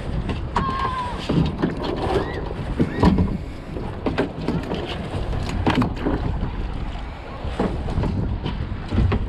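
Wind buffeting the microphone over water noise, broken by scattered knocks and scrapes against the kayak as a crab pot and its catch are handled.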